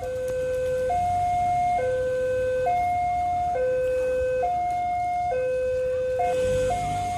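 A two-tone electronic alarm alternating steadily between a higher and a lower note, each held just under a second, over a low background rumble.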